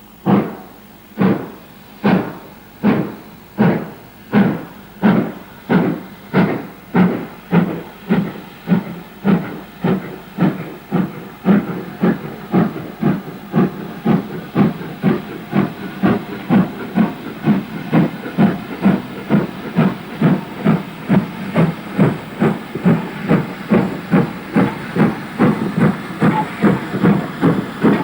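Steam locomotive exhaust beats as it pulls away and gathers speed: sharp, even chuffs that start about one a second and quicken to about two a second.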